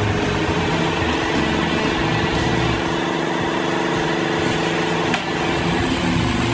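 An engine running steadily, with a brief dip in level about five seconds in.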